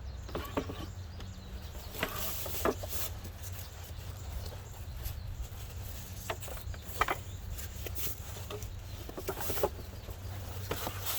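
Birds chirping in short scattered calls, with a few brief knocks and rustles, over a steady low rumble.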